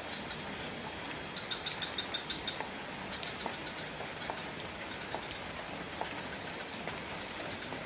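Steady rain falling, with scattered louder single drops. About a second and a half in comes a quick run of high chirps, about six a second, and a few more just after three seconds.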